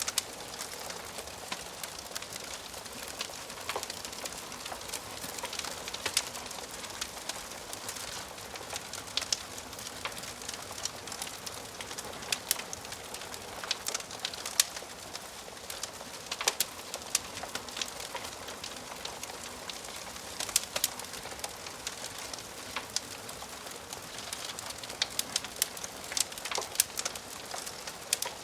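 Wood fire burning in a fireplace, crackling and popping in sharp, irregular snaps over a soft steady hiss.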